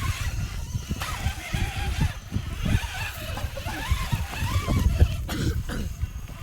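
Rlaarlo JK07PRO 1/7 RC trail truck's electric drivetrain whining as it is driven, the pitch rising and falling with the throttle. Irregular low rumbling runs under it throughout.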